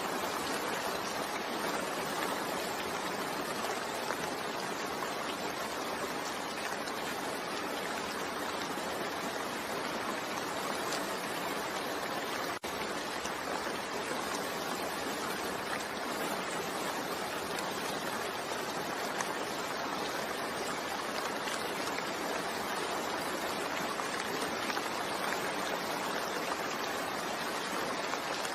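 Steady rain falling, a constant even hiss of drops, with a split-second dropout about halfway through.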